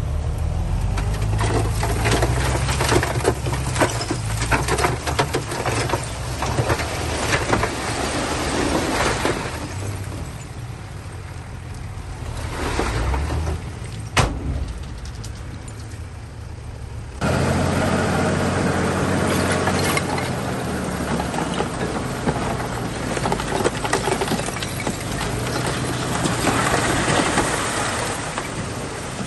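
Bulldozer diesel engine running under load, with clanking and rattling from its tracks and the stone it pushes. The sound drops for a few seconds, then changes abruptly a little past halfway.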